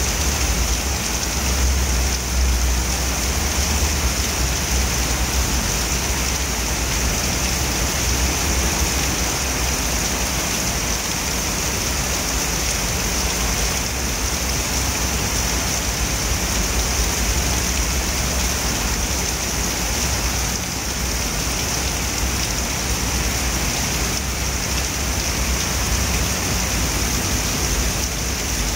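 Heavy rain pouring steadily onto wet pavement: a dense, even hiss with a low rumble underneath.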